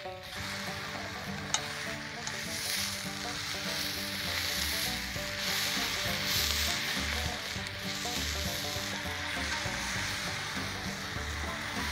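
Food frying on a hot iron griddle, a steady sizzle that grows louder toward the middle, with background music underneath and a single sharp click about a second and a half in.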